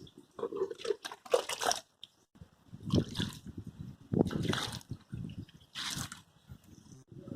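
Water splashing in short bursts, four times in a few seconds, during a hand car wash.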